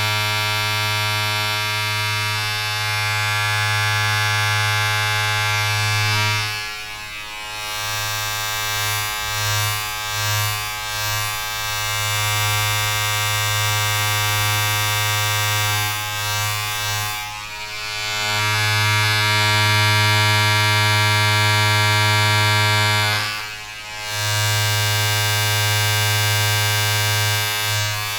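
A steady electric buzz, like a small vibrating motor, with many overtones. It falters and wavers a few times and cuts out briefly for under a second near the end.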